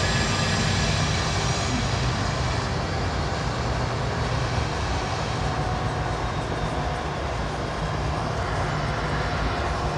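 Norfolk Southern freight train passing, a steady rumbling run of noise that eases slightly after a few seconds.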